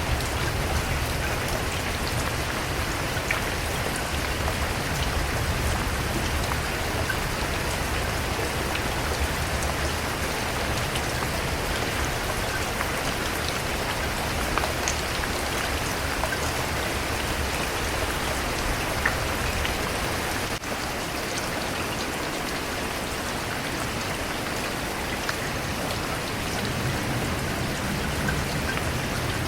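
Steady rain falling on a surface, with scattered individual drops ticking over an even hiss.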